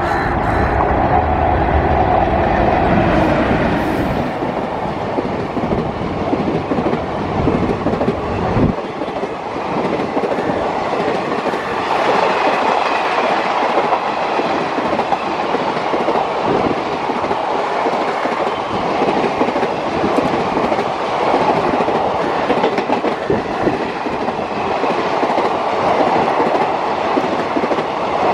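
Indian Railways WAP-4 electric locomotive coming on with a heavy low-pitched running sound, which cuts off abruptly about nine seconds in. Then the coaches of its empty passenger rake roll past steadily, wheels clicking over the rail joints.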